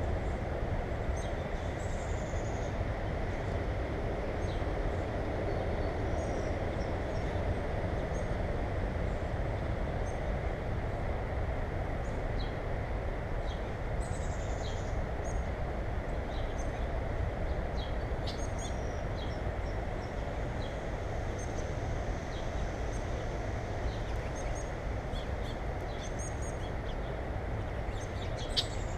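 Small birds give short, high chirps and calls now and then over a steady low background noise. There are a few sharp clicks near the end.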